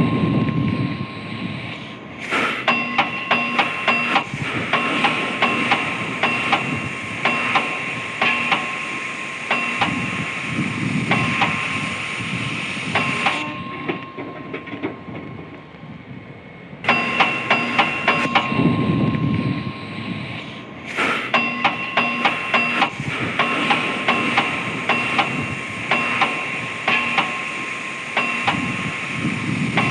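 Steel being hammered at the forge: quick, uneven metal-on-metal strikes over a sustained high metallic ring, with a lull of a few seconds about halfway through.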